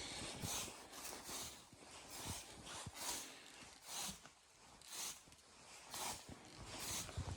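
Slow footsteps crunching in snow, about one step a second, faint.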